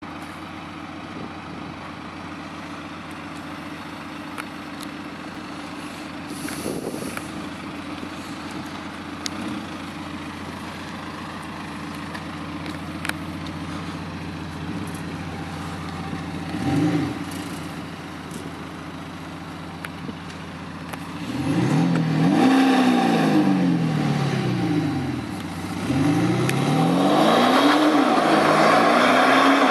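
BMW 420d's four-cylinder diesel engine heard through a custom stainless steel sport exhaust, idling steadily. It gives one short blip, then is revved up and down several times near the end and finally held at higher revs.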